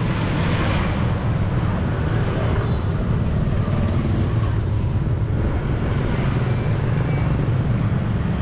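City street traffic noise heard from a moving bicycle: a steady low rumble of passing motor vehicles.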